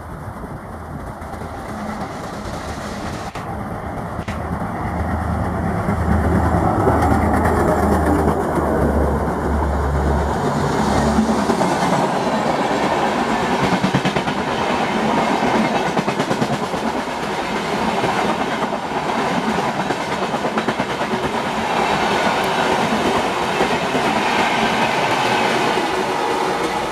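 Diesel locomotive hauling a passenger express past: a steady low engine drone for the first ten seconds or so, then the coaches rolling by with rapid wheel clatter over the rail joints.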